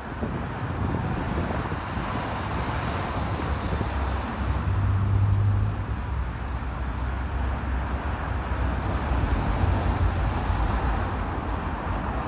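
Steady outdoor background noise: a low rumble with a hiss over it, swelling briefly about five seconds in.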